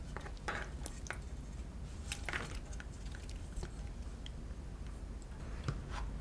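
Scattered light clicks and taps of kitchen handling, such as utensils and packaging, over a low steady hum.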